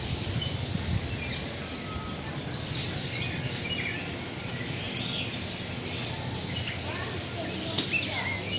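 Bird-park ambience: many small birds chirping and calling in short scattered notes over a steady high-pitched buzz, with a low background rumble.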